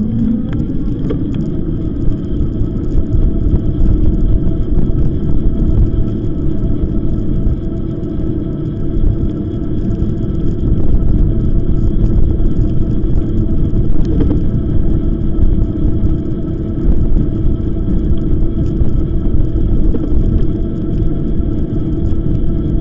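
Wind buffeting the microphone on a moving e-bike, over the steady whine of its electric motor.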